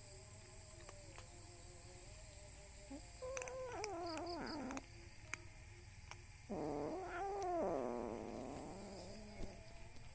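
Hungry kitten meowing: two long, wavering meows, the first about three seconds in and a longer one about three seconds later.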